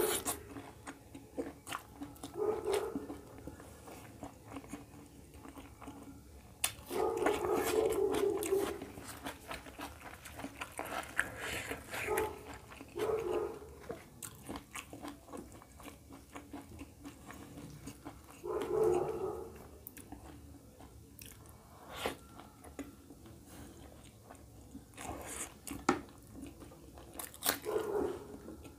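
Close-miked eating sounds: wet chewing and lip smacks as egg curry and roti are eaten by hand, with many small clicks of the mouth. A couple of louder muffled sounds stand out, about seven seconds in and again near nineteen seconds.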